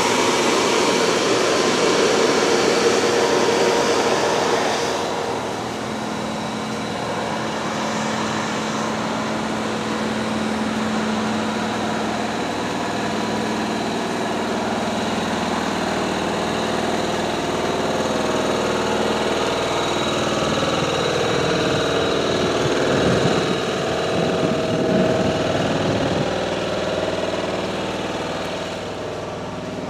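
A train's drive running at a station: a steady mechanical hum with a thin high tone. It is louder and noisier for the first five seconds, and its pitch wanders about two thirds of the way through.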